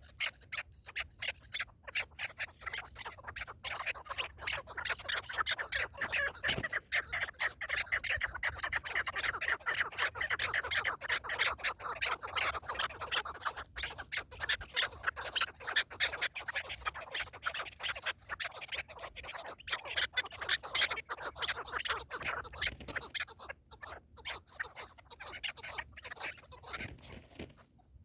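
A flock of partridges calling, a dense run of rapid short cackling calls that thins out near the end.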